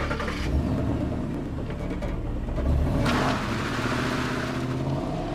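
Car engine running and revving in a film's sound mix, with a louder rush of noise starting about three seconds in.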